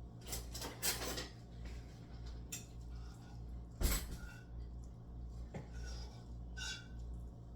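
Dishes and cutlery clinking and knocking: about half a dozen separate knocks, some ringing briefly, the loudest a little before halfway, over a steady low hum.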